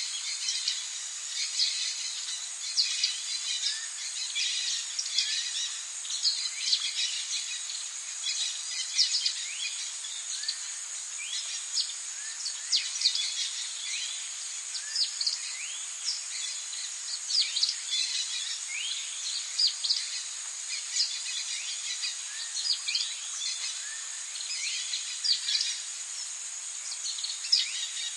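Rainforest ambience: a steady high drone of insects with many short bird chirps and whistles over it, coming thick and fast throughout.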